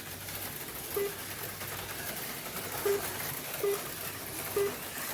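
HO-scale slot cars running around the track with a steady faint whir. Four short low beeps sound over it, one about a second in and three closer together in the second half.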